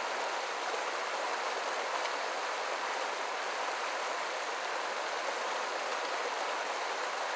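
Creek current running steadily, an even rush of flowing water.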